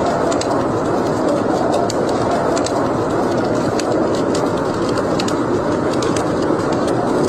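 Wood fire burning in a fireplace: a steady rush of flames with frequent, irregular sharp crackles and pops.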